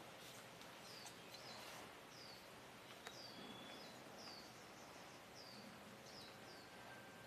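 Faint outdoor background with a small bird calling over and over: short high chirps that fall in pitch, about two a second.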